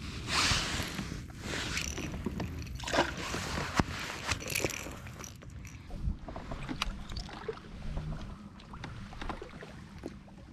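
Water splashing and sloshing around a kayak, with several sharp knocks against the hull.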